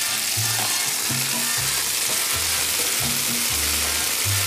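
Dried apricots, prunes and almonds sizzling in butter and oil in a frying pan as they are stirred, with a steady hiss. Background music with held bass notes plays underneath.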